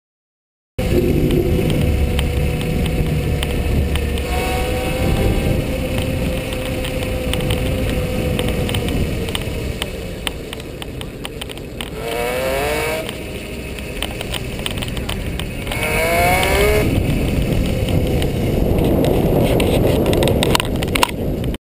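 Electric bicycle's motor whining steadily under wind noise on a bike-mounted action camera's microphone, with two short whines rising in pitch as the motor speeds up.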